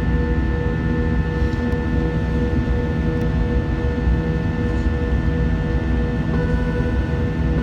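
Jet airliner cabin noise in flight after takeoff: a steady engine drone and rumble with several steady tones. About six seconds in, the tones shift slightly.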